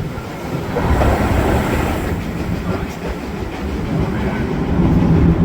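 Heritage steam-hauled railway carriage running along the track: a steady, low-heavy running noise of wheels on rails.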